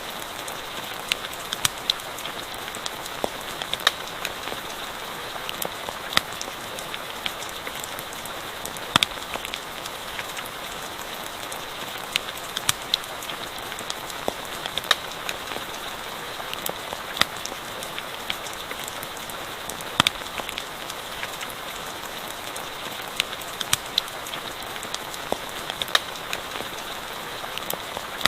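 Steady rain falling, with irregular sharp crackles and pops from a wood campfire scattered through it.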